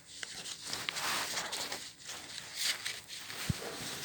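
A sheet of paper rustling and being creased by hand as it is folded, in irregular scrapes and crinkles, with a single dull thump near the end.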